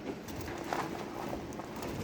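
Lovebirds making faint sounds, with a few light clicks and soft calls.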